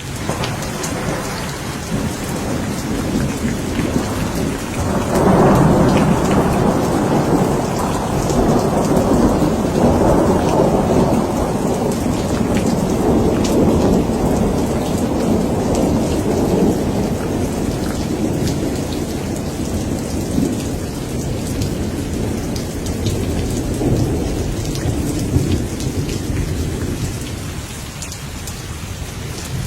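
Thunderstorm: steady heavy rain with a long rolling rumble of thunder that swells about five seconds in and slowly dies away.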